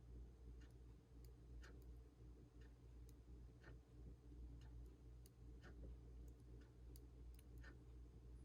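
Near silence with a faint clock ticking about once a second, alternate ticks a little stronger, over a low steady hum.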